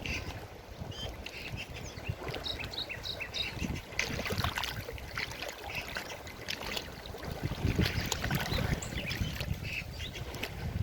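Forest river water rushing and splashing in a steady, uneven wash, with small birds chirping over it in short high calls.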